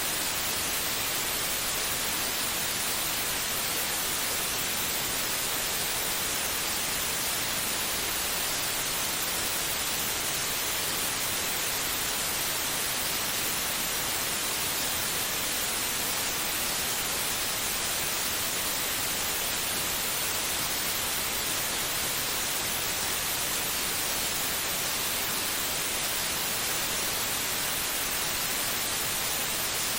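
Steady white noise: an even, unbroken hiss, brighter in the treble, with no rhythm or change, of the kind played to lull a baby to sleep.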